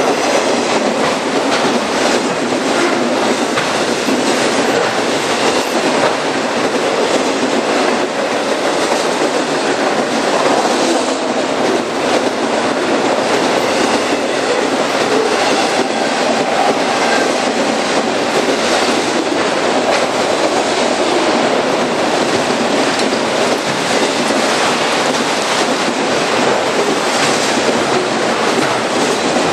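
Railcars of a passing train rolling by, the steady rumble of steel wheels on rail with wheels clacking over rail joints.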